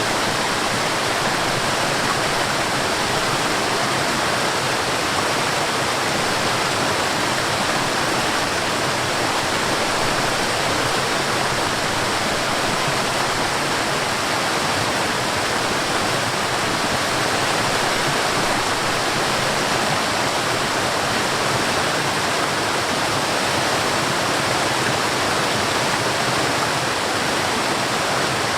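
Forest waterfall: a steady rush of falling water, even and unbroken.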